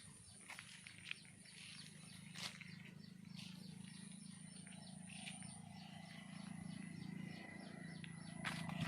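Faint outdoor ambience: a steady low hum, with short high chirps repeating evenly about three times a second in the second half.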